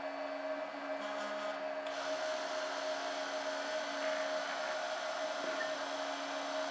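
Spindle motor of a home-built Arduino-controlled CNC router running with a steady whine while its oiled bit engraves plexiglass; a high hiss joins about two seconds in.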